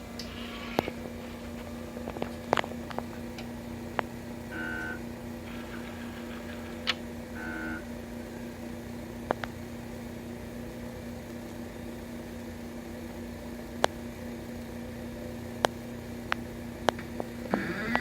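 Atomic absorption spectrometer running its power-up self-test: a steady hum with scattered clicks and two short whirs from its stepper motors, then near the end the stepper motors start whirring in a run of stepped pitches.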